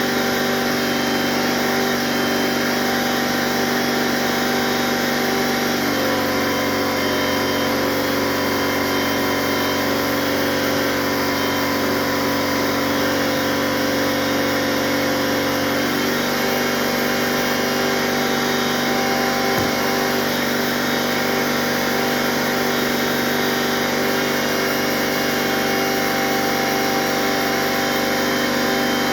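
A power tool running steadily with a whine of several steady tones; its pitch shifts twice.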